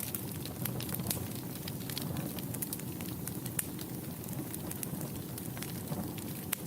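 Wood fire burning in a fireplace: a steady low rush of flame with frequent irregular sharp crackles and pops.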